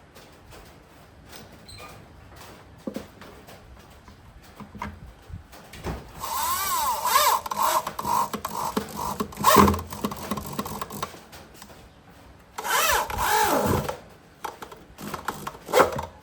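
Power drill running in two bursts, a long one about six seconds in and a shorter one near the end, its motor whine swooping up and down in pitch, with light clicks before them.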